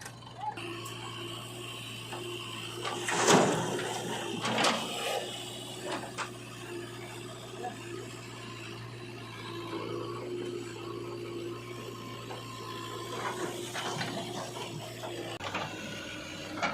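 A motor running steadily with a low hum, with a few sharp knocks, the loudest about three seconds in and another about five seconds in.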